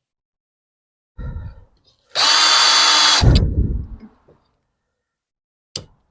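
Power drill driving a screw: a short blip, then about a second of steady high motor whine, dropping into a lower rough grind as it slows and stops, with a brief click near the end.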